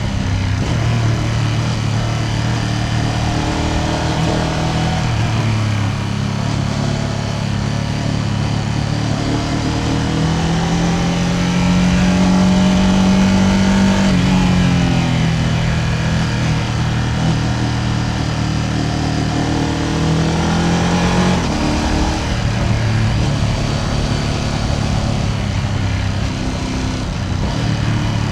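Ducati Panigale V2S's V-twin engine pulling on the road. Its pitch climbs from about eight seconds in, holds briefly, then falls; it climbs again and drops off a little past twenty seconds.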